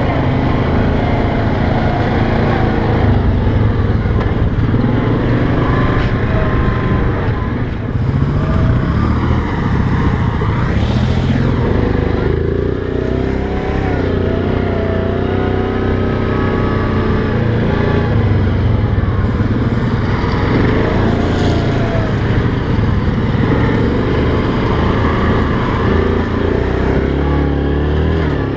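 ATV engine running under way on a trail, its pitch rising and falling with the throttle.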